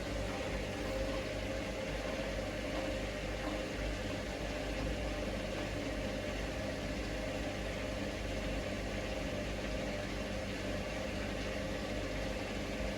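Hoover Link washing machine's motor running steadily with a steady hum as the drum turns at low speed, trying to distribute an unbalanced load before its spin. The load won't balance, so the machine keeps repeating the attempt.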